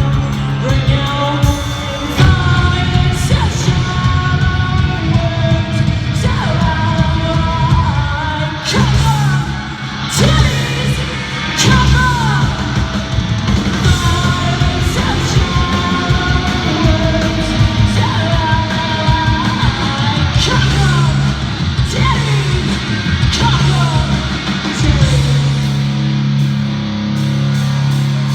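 Live rock band playing loud in an arena: distorted electric guitars, bass and pounding drums, with shouted vocals and the hall's echo.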